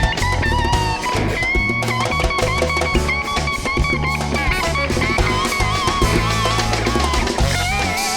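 Live band playing an instrumental groove: bass and drum kit with guitar, under a held, wavering lead melody line.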